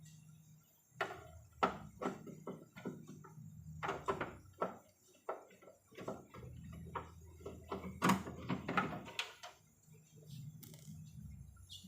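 Irregular knocks, taps and clatter of hard plastic and tools as a CRT television is being taken apart, over a low steady hum.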